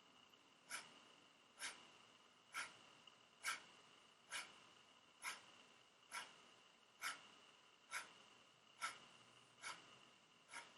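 Kapalabhati cleansing breath: a woman's short, forceful exhales through the nose, one sharp puff about every second, twelve in a row, with near quiet between them.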